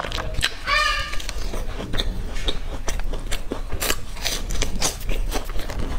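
Close-miked chewing and biting of a soft bread roll with a chocolate filling: a run of wet mouth clicks and smacks throughout, with a short pitched mouth sound about a second in.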